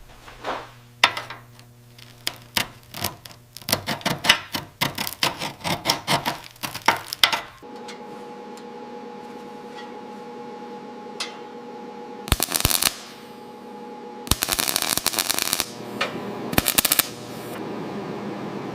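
Metal workshop tool noise: several seconds of rapid, irregular clicking and knocking, then a steady machine hum with three short bursts of fast rattling.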